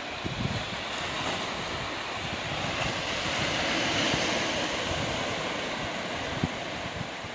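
Ocean waves washing onto a rocky beach, one wash swelling to a peak about halfway through and then easing off, with wind buffeting the microphone in short low rumbles.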